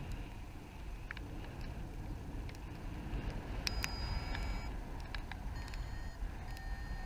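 Wind rushing over the microphone in flight, a steady low rush, with scattered sharp ticks. About halfway through come three short bursts of high electronic beeping.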